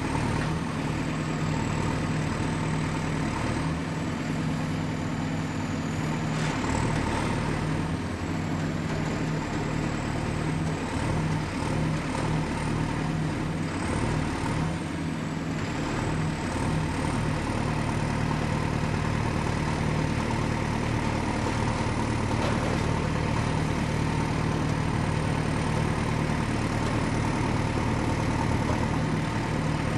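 Excavator's diesel engine running steadily at a low, even speed, with a faint high whine that wavers slightly in pitch.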